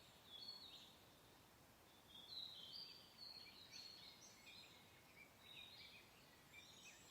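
Faint birdsong: several short chirping phrases, a brief one just after the start and a busier run of chirps from about two seconds in, over a soft, even hiss of wind.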